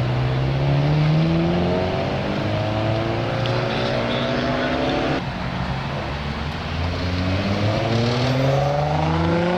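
Car engines with loud exhausts accelerating, the engine note climbing slowly and steadily in pitch; about five seconds in the sound changes abruptly and a second engine note rises again, starting to drop right at the end.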